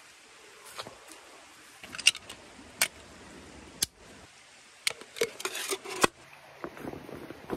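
Irregular light clinks and knocks of metal camp cookware and utensils being handled, with a few sharper taps about a second apart and a quick cluster of them a little after the middle.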